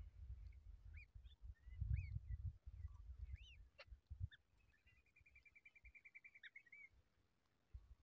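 Faint, short high bird chirps about once a second, then a rapid trill of about ten notes a second lasting about two seconds, with a single sharp click just before it. A low rumble lies under the first half.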